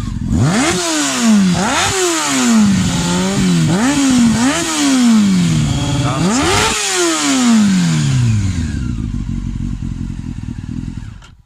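Honda CBR600's inline-four engine with a Yoshimura exhaust revved at standstill in a string of quick throttle blips, the pitch climbing and dropping about six times, with one longer rev about two-thirds in that falls back toward idle. Very loud; the sound cuts off suddenly near the end.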